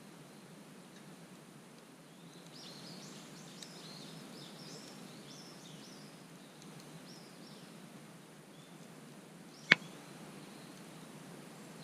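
Wood campfire burning with a faint steady rush and one sharp, loud pop near the end. Small birds chirp in a quick run of short calls for a few seconds in the middle.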